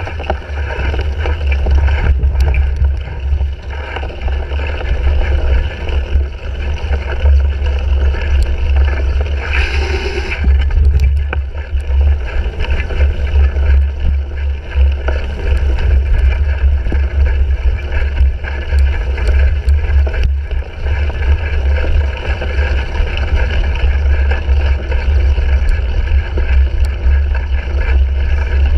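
Wind buffeting the microphone of a handlebar-mounted GoPro Hero 3 on a cyclocross bike being raced, a constant low rumble with the bike's rattle and tyre noise under it. There are scattered knocks, and a brief louder hiss about ten seconds in.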